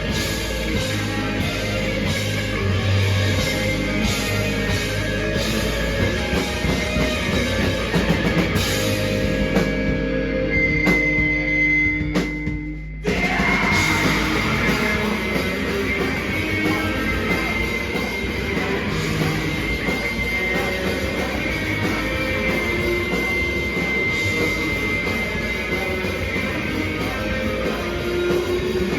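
Live rock band playing loud with distorted guitars and a drum kit. A little before halfway the band drops out for a moment and crashes back in, with a high held tone ringing over the music.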